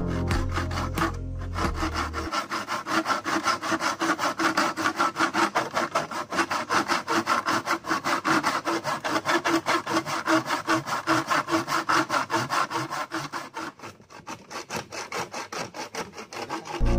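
Steel back saw cutting wood in a plastic mitre box, rapid and even back-and-forth strokes that ease briefly near the end before picking up again. Background music runs under the first two seconds.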